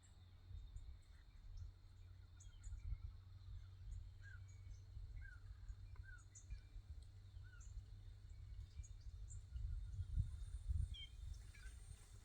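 Birds giving scattered short chirps and calls over a steady low rumble.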